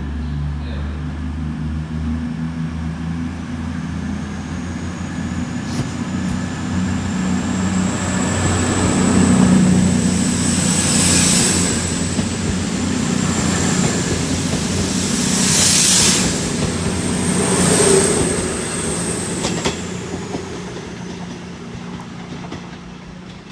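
CrossCountry Class 221 Voyager diesel-electric multiple unit moving through the station, its underfloor diesel engines running steadily. A thin high-pitched wheel squeal rises early on and holds, then dies away near the end. Louder surges of wheel and rail noise come three times as the cars pass.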